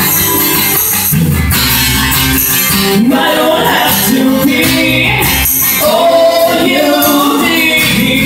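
Band music at full volume: guitars and percussion, with a voice singing over it from about three seconds in.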